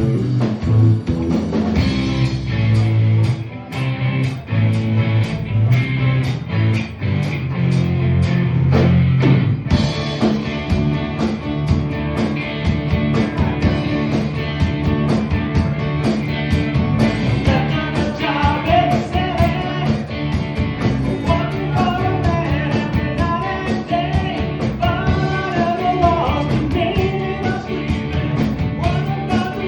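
Live rock band playing an instrumental passage with drums, bass and electric guitar. The bass part changes about ten seconds in, and a bending lead melody enters about two-thirds of the way through.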